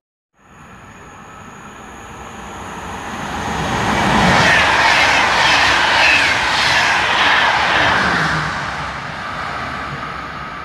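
Double-deck passenger train passing through the station at speed: it grows louder as it approaches, peaks about four to seven seconds in with a rapid clatter of wheels over the rails, then fades as it goes away.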